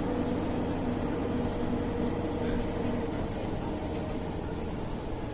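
MAN A21 city bus heard from inside while it drives, with a steady engine and drivetrain hum. A low droning tone fades out about three seconds in, and a deeper hum comes up near the end.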